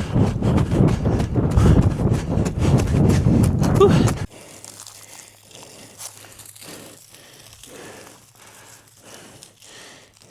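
A runner's footsteps and hard breathing during an uphill repeat, loud and dense. About four seconds in the sound drops suddenly to quieter, evenly spaced footsteps over a faint low hum.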